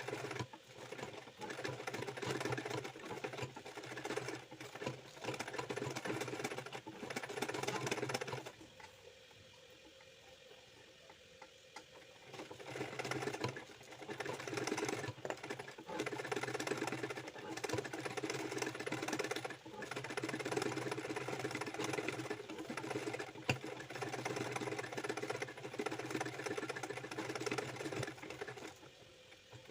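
Household sewing machine stitching in steady fast runs, stopping for about four seconds near the middle and briefly again near the end.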